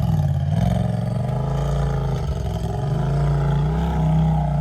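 Side-by-side UTV engine running steadily at low revs, its pitch wavering gently with the throttle as it crawls along the trail.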